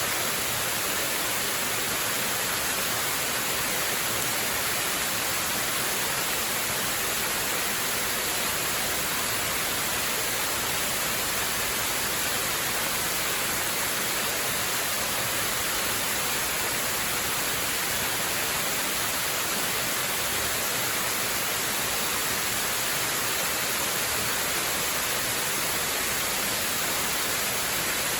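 Waterfall: a steady, unbroken rush of falling water, even and hissy with no separate splashes.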